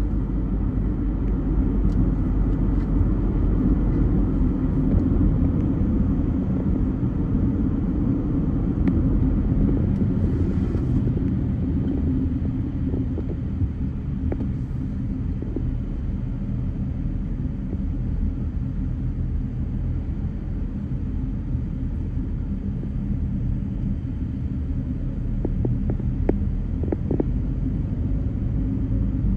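Car driving in traffic: a steady low rumble of engine and road noise, with a few faint clicks near the end.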